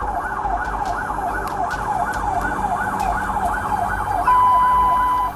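Police car siren in fast yelp mode, its pitch sweeping up and down about two to three times a second. About four seconds in, a steady high tone cuts in over it, louder.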